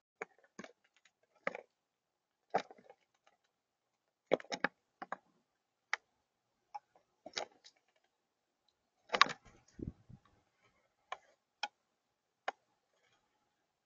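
Irregular sharp taps and clicks, about twenty of them at uneven spacing, with a duller, deeper knock about nine to ten seconds in.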